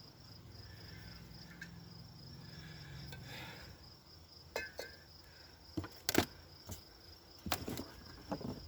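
Wooden beehive parts knocked and scraped as the hive is opened: a series of sharp knocks in the second half. Insects chirr steadily in the background.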